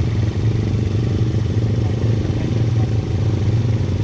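ATV engine running steadily, a low drone that holds the same pitch and level throughout.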